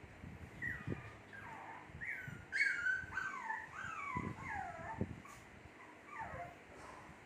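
Two-month-old Shih Tzu puppies whimpering: a string of short, high cries that each fall in pitch, several overlapping, loudest about two and a half seconds in. Soft low thumps sound underneath.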